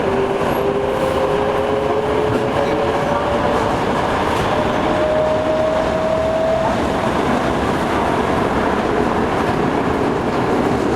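Toei 5300 series subway train running, heard from inside the car: a steady rumble of wheels on rail with a motor whine that rises slowly in pitch for about the first seven seconds as the train gathers speed, then fades.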